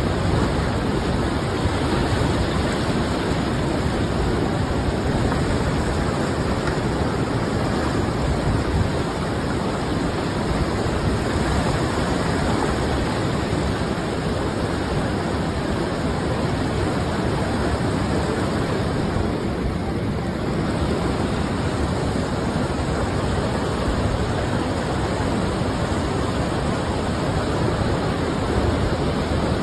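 Rushing floodwater and heavy rain: a loud, steady rushing noise that never lets up.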